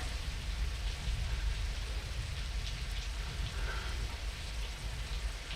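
Steady rain falling, with a deep low rumble underneath.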